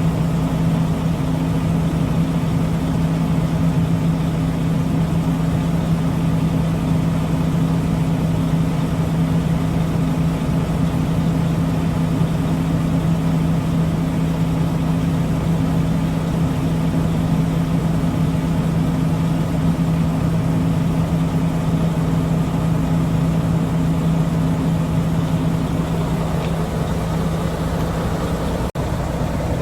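Engine idling steadily, a constant even hum that does not rise or fall, with a very brief break about a second before the end.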